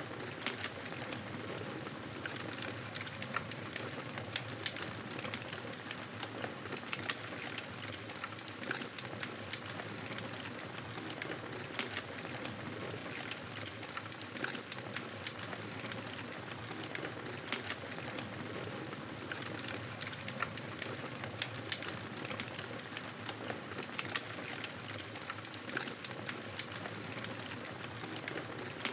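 Fireplace fire crackling, with frequent irregular sharp pops over a steady soft hiss.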